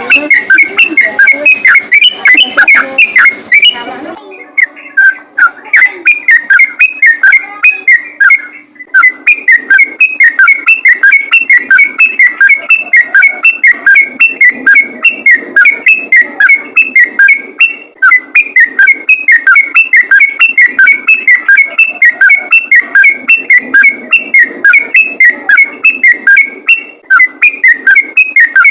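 Yellow-vented bulbul (trucukan) singing a fast, unbroken run of short chirping notes, about four or five a second: a 'ropel' fighting song of the kind played as a lure call.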